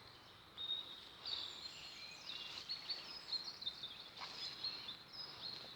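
Faint birdsong in a pine forest: thin, high phrases that step and slide in pitch, with a steady high thin tone underneath.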